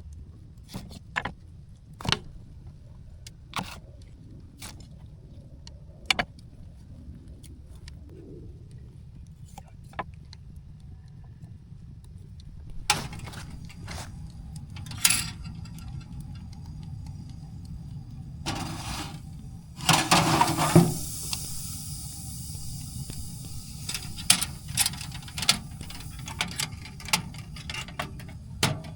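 Scattered sharp clicks and knocks over a low steady rumble, with a louder rustling noise lasting about two seconds a little past the middle.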